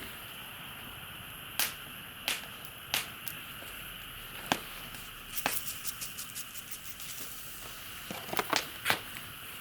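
Wood campfire crackling: sharp, irregular pops over a steady hiss, with quick runs of small crackles in the second half.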